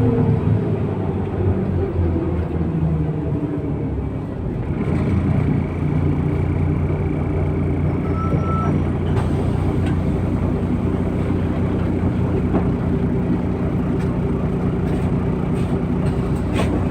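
MAZ-103 city bus heard from on board: its diesel engine and drivetrain whine falling away at the start as the bus slows, then the engine running steadily from about five seconds in.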